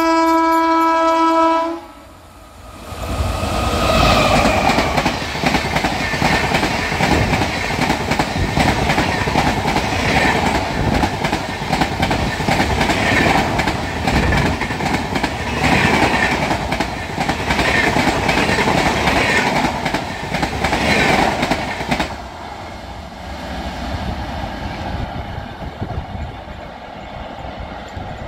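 Train horn sounds once, a single steady high tone lasting under two seconds. Then a passenger express train passes at speed: loud rumble and wheel clatter on the rails, swelling every two to three seconds. It fades to a lower rumble for the last six seconds as the train recedes.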